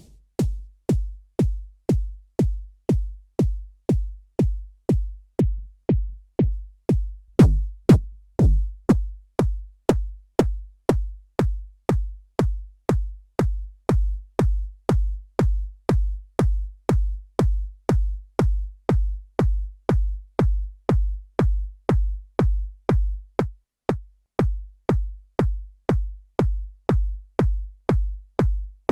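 Synthesized electronic kick drum from Ableton's Operator synth, looping at about two hits a second. Each hit is a short click over a deep low boom. A few hits about eight seconds in are louder, with a falling pitch, and the loop skips a beat shortly before the end.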